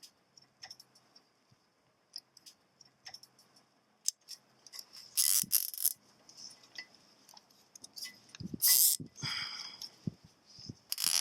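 A plastic zip tie being pulled tight through its ratchet in three short rasping pulls. Small clicks and rattles of the strap and buckle being handled come between the pulls.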